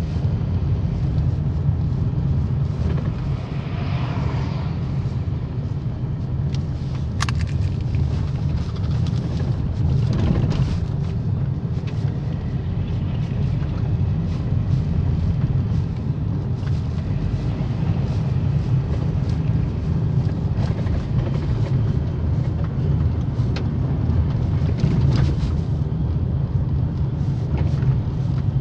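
Steady road rumble from a moving Toyota Ipsum (ACM21), with a few brief knocks from a worn front suspension strut, around 3, 10 and 21 seconds in.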